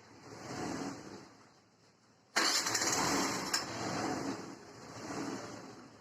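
A Hero Duet scooter's 110cc single-cylinder four-stroke engine starts suddenly about two seconds in, then runs with light swells of throttle. The engine has a freshly fitted timing chain and is running without its earlier rattle, which the mechanic calls a very good sound.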